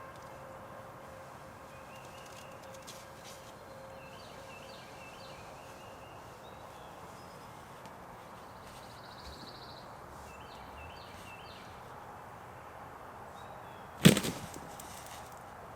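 A single shotgun blast near the end: one sharp crack with a short echo dying away, far louder than anything else. Before it, quiet woods with a few small bird chirps.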